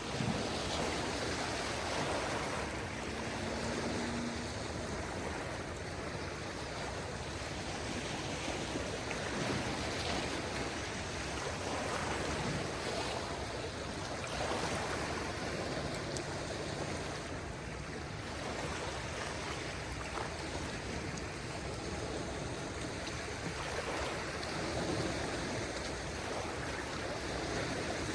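Small, gentle sea waves washing onto a beach: a steady hiss of water that swells and eases every few seconds.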